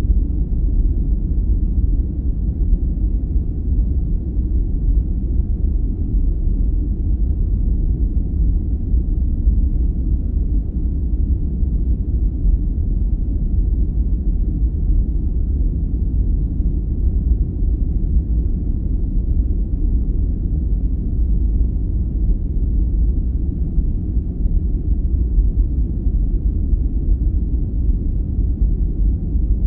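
Steady sleep-aid noise, deep and even with nothing in it changing; it sits low and rumbling, closer to brown noise than to hiss.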